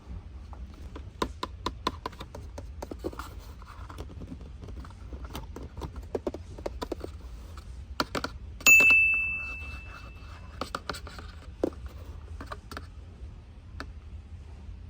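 Plastic toys and packaging being handled: a steady run of small clicks, taps and crinkles. About nine seconds in, a bright single ding rings out suddenly and fades over about two seconds.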